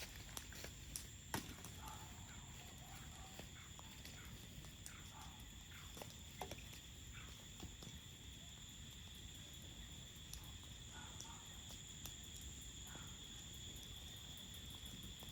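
Crickets trilling steadily, with a campfire's crackle giving scattered sharp pops, most of them in the first couple of seconds, over a low rumble.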